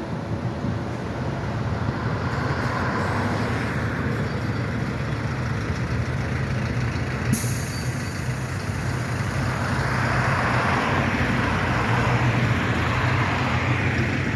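Street traffic with heavy vehicles running steadily. A sharp click about seven seconds in is followed by a high hiss.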